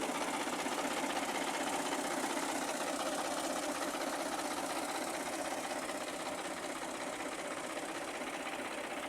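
Al-Ghazi tractor's diesel engine idling steadily, easing slightly in level over the last few seconds.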